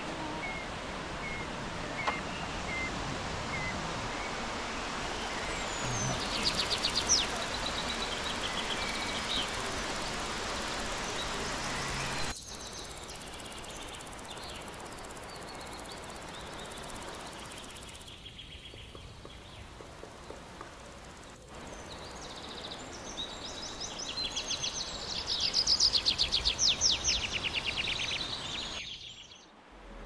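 Indoor rainforest ambience: a steady background hiss with bird calls over it, a row of short chirps near the start, rapid trills about seven seconds in, and louder rapid trills near the end. The background changes abruptly at several cuts.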